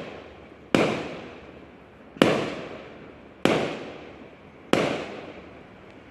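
Fireworks going off: four sharp bangs about a second and a quarter apart, each trailing away in a long echoing fade.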